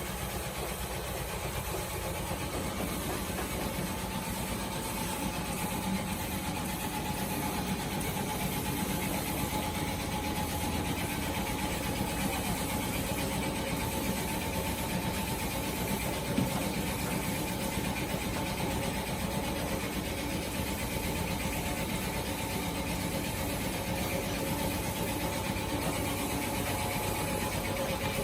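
Air compressor running steadily for spray painting, a constant mechanical hum with an even hiss over it.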